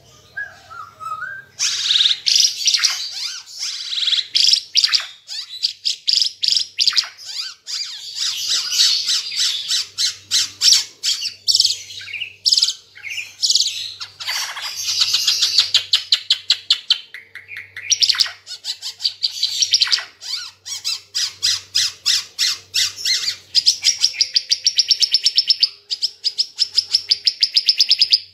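Burung Ara Timor, a red-eyed songbird, singing in long runs of rapid high chirps and trills, starting about a second and a half in.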